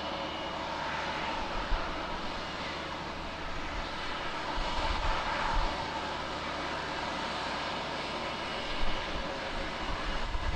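Jet airliner's engines at takeoff power during a departure from the runway: a steady, noisy roar with a few swells in loudness.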